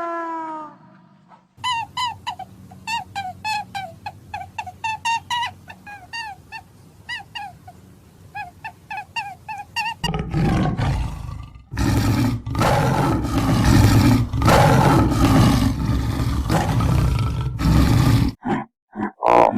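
Animal calls: a run of short, high chirping calls repeated several times a second, then about ten seconds in a loud, rough roar from a big animal that lasts some eight seconds, followed by a few short calls.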